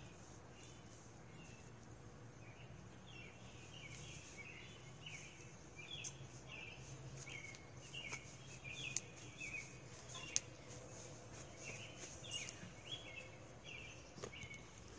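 Faint outdoor ambience: a bird chirping over and over, about twice a second, over a steady high hiss and a low hum, with a couple of sharp clicks midway.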